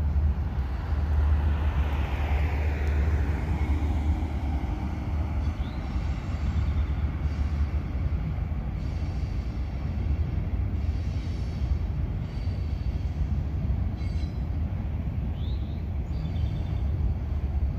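Riding lawnmower's engine running with a steady low rumble as it is driven along. A falling whine comes about two seconds in.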